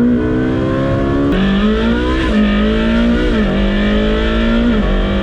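Ferrari 458 Speciale's naturally aspirated V8 with a Novitec stage 3 sport exhaust accelerating hard: the engine note climbs steadily, drops sharply at each of several quick gear changes, then climbs again.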